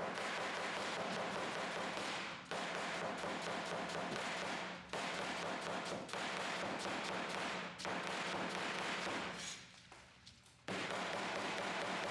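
A steady rushing hiss that cuts out briefly four times and stops for about a second and a half near the end before starting again.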